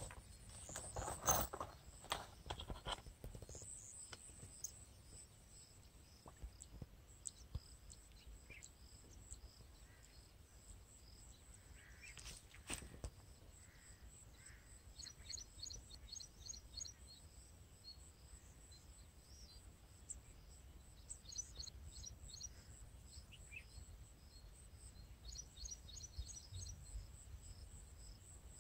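Small birds chirping in short, rapid bursts, several times over, against faint outdoor background noise. Rustling and clicking as a cloth bag is handled in the first few seconds.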